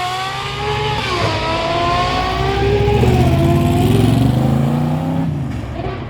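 Car engine accelerating hard, its note climbing through the gears with shifts about a second in and about three seconds in. The sound fades near the end.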